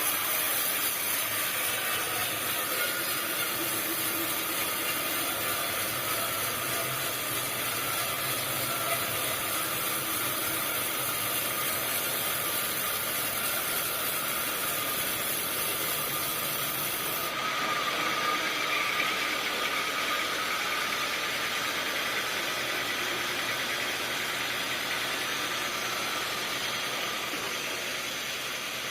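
Sawmill machinery running steadily. A high hiss stops about two-thirds of the way in.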